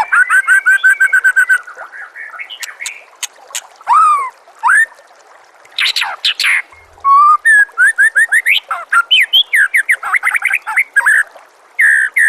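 White-rumped shama (murai batu) singing a fast, varied song: rapid runs of short repeated notes broken by longer rising and falling whistles.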